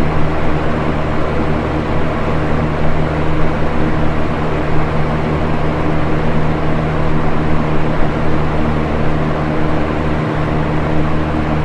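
Electric box fan running steadily: a constant whooshing rush of air over a low motor hum.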